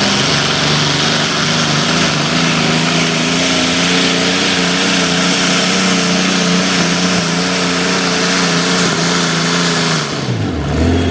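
Single-engine modified pulling tractor running flat out under load as it drags the weight sled, a loud, steady high engine note. About ten seconds in the engine drops off sharply and winds down as the pass ends.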